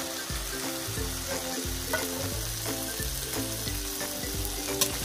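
Chopped green bell pepper tipped into a steel kadhai of hot masala and peas, sizzling as a steel spatula works through it, with a couple of sharp spatula clicks. Light background music plays underneath.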